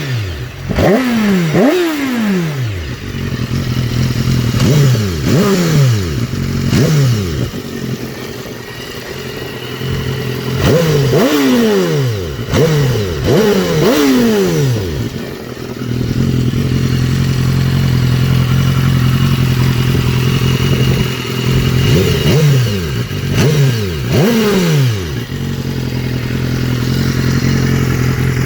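2013 BMW S1000RR's inline-four engine through an Akrapovic exhaust, blipped again and again with quick revs that rise and drop straight back to idle. There is a run of blips early on, a quick series in the middle and a few more near the end, with a steady idle between them.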